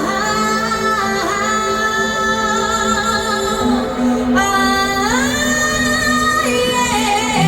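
Live pop music through a concert sound system: a woman sings long held notes with vibrato, sliding up into some of them, over a sustained backing track.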